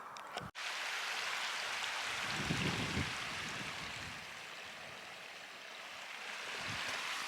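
Steady rushing water of a mountain stream, with a brief low rumble near the middle.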